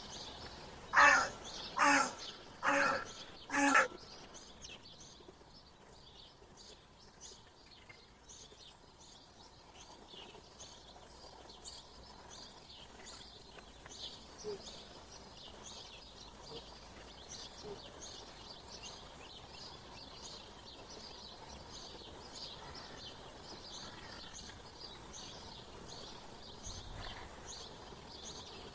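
Birdsong: a large bird gives four loud calls about a second apart near the start, then a steady chorus of small birds chirping continues.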